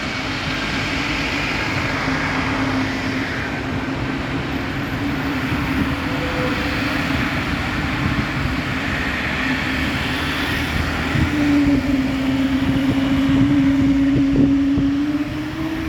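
Airplane engine noise: a steady droning hum over a rushing noise, growing louder for a few seconds toward the end.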